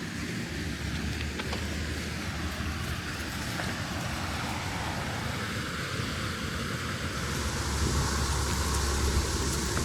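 Water-powered boat-lift machinery running: a steady low rumble with a rushing noise that grows louder about seven seconds in.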